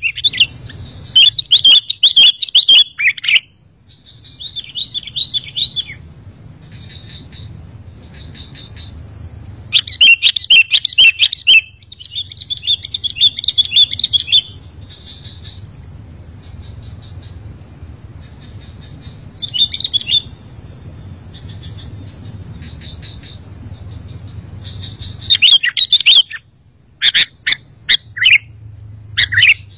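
Sooty-headed bulbul (kutilang) chirping and singing in lively bursts of quick, bright notes. Loud bouts come near the start, around the middle and near the end, with softer chirps between, over a faint low hum.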